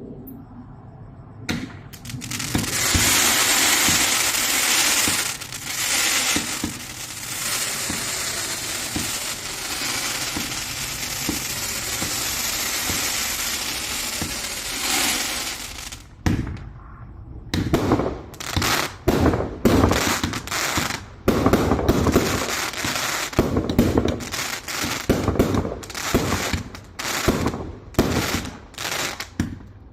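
A 168-shot cake firework firing. For about fourteen seconds there is a dense, continuous crackling hiss. After a brief lull comes a rapid series of separate loud bangs, one or two a second.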